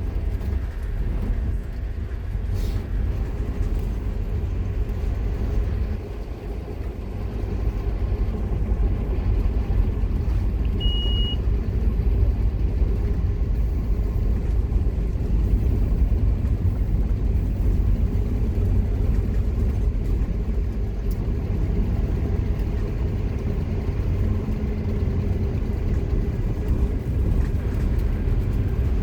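Scania K230UB Omnilink bus's nine-litre five-cylinder diesel engine running under load. It eases about six seconds in, then builds back up as the bus pulls on. A short high beep sounds about eleven seconds in.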